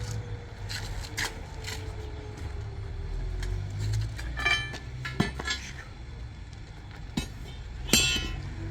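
Dishes and utensils knocking and clinking during cooking, with two ringing clinks, about halfway through and near the end, over a steady low hum.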